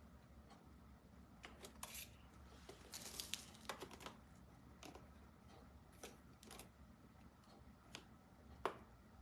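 Faint, scattered clicks and rustles of something being handled by hand, over a low hum. A quick cluster comes about one to four seconds in, then single clicks every second or so, the sharpest near the end.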